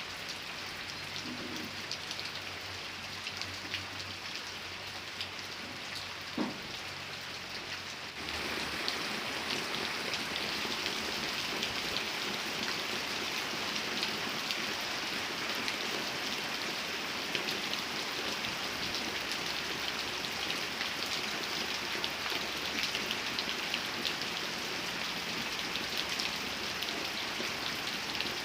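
Steady rain falling, with individual drops ticking through it. About eight seconds in it suddenly becomes louder and heavier. There is one short sharp sound a little before that.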